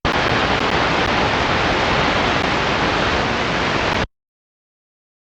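Airband radio receiver putting out steady static hiss with no voice, then cutting off abruptly about four seconds in as the squelch closes.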